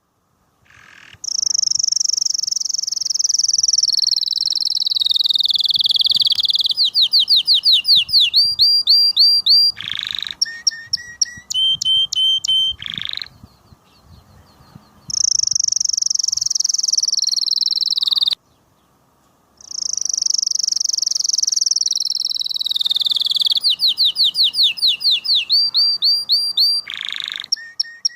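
Domestic canary singing: long rolling trills that slide down in pitch, then runs of fast repeated notes. The song breaks off abruptly about two-thirds through and starts again a second later.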